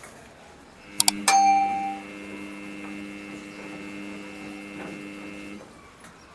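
Samsung front-load washing machine control panel: two button clicks about a second in and a short beep. The machine then gives a steady pitched hum for about four seconds before it stops.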